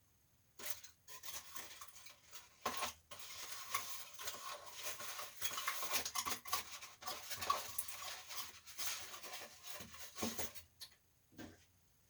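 Hands handling the window air conditioner's casing: rubbing and scraping with many small clicks and clatters, starting about half a second in and stopping shortly before the end.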